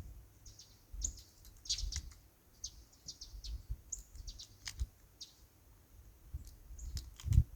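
Small birds chirping: a scattered run of short, high calls, many falling quickly in pitch, with a few faint low knocks underneath.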